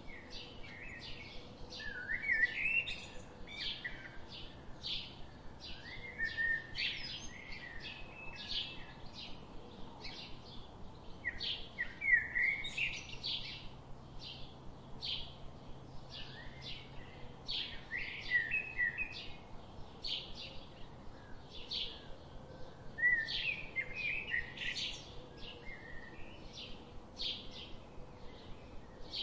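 Birds chirping: a steady run of short high chirps, about two a second, with a warbling phrase every five or six seconds.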